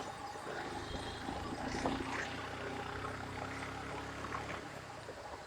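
Floodwater running, a faint steady rush.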